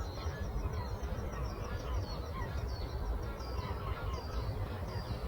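A chorus of songbirds chirping: many short, quick, downward-sliding high notes, one after another, over a steady low rumble.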